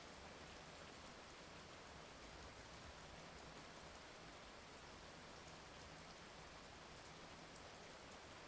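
Steady, quiet rain falling, a constant even hiss with fine patter of drops and no thunder.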